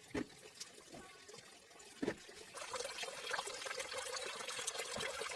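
Two sharp knocks, then water starts to pour and trickle steadily about two and a half seconds in.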